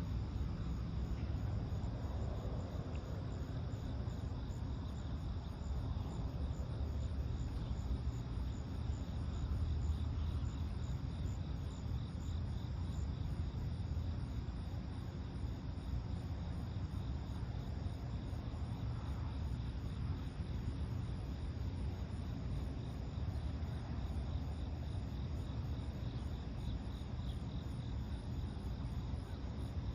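Insects, crickets or katydids, chirping in steady, evenly repeating high pulses, over a constant low rumble of ambient background noise.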